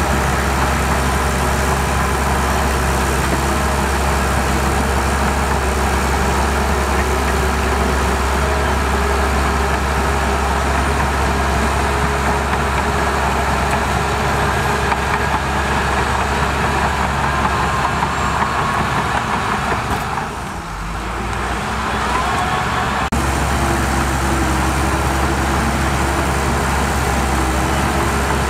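Heavy construction machinery running steadily with a dense engine drone. About twenty seconds in it dips for a couple of seconds, then comes back abruptly.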